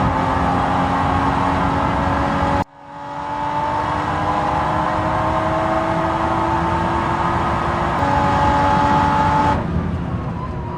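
Toyota GR Supra GT4 race car's 3.0-litre turbocharged BMW B58-derived inline-six, heard onboard at high revs, its pitch climbing slowly as the car accelerates. About two and a half seconds in, the sound cuts out abruptly and swells back. Near the end it drops suddenly to a quieter, lower note.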